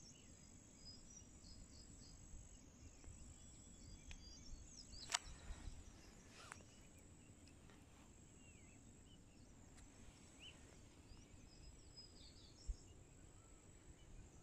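Faint natural ambience: scattered small bird chirps and whistles over a steady high insect drone, with one sharp click about five seconds in and a brief low bump near the end.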